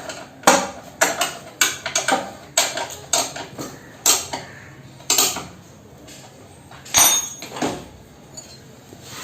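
Wrench clicking against metal in a steady series of sharp clicks about twice a second, then two louder metal clanks near the end, as the upper triple clamp (T-stem) bolts on a motorcycle front fork are tightened.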